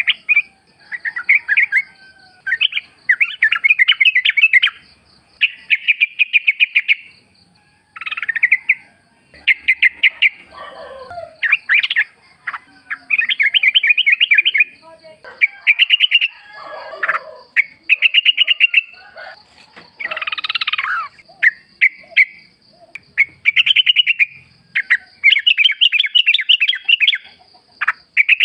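Yellow-vented bulbul song: repeated quick, bubbly chattering phrases, each about one to two seconds long with short pauses between. A faint steady high tone runs underneath, with a few lower calls near the middle.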